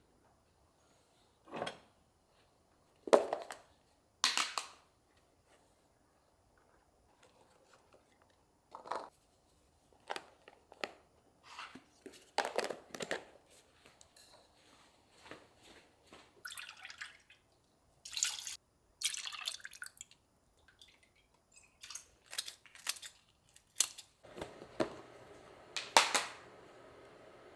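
Kitchenware being handled: irregular clicks, knocks and light clatter as things are picked up and set down, with a steady low hum coming in near the end.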